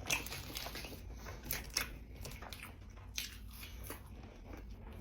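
Close-miked eating: a person biting into and chewing a cheeseburger, with sharp mouth clicks near the start, twice about a second and a half in, and again about three seconds in.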